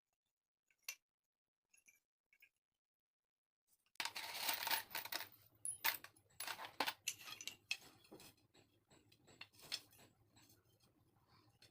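Small hard pieces being handled: a few isolated clicks, then from about four seconds in a busy run of clicking, clinking and scraping over a faint steady hum.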